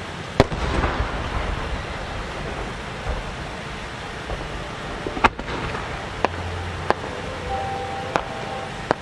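Large 10-go (about 30 cm) aerial firework shells launching and bursting, heard as sharp booms: a loud bang about half a second in, another strong one about five seconds in, and several smaller reports after it, over a steady background hiss.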